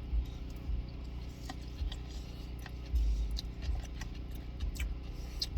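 Small clicks and taps of eating from a takeout container, with a few soft low thumps, over a steady low hum.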